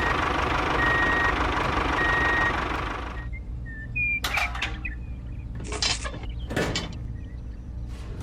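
A vehicle reversing alarm beeping about once a second over a steady mechanical running noise, which cuts off about three seconds in. A few short clatters follow over a low steady hum.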